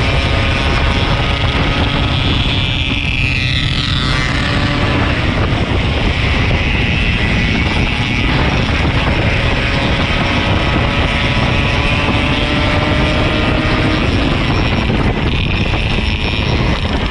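Yamaha RX-King 135 two-stroke single-cylinder motorcycle being ridden at a steady pace. Its engine note drifts slightly up and down under heavy, steady wind rumble on the microphone.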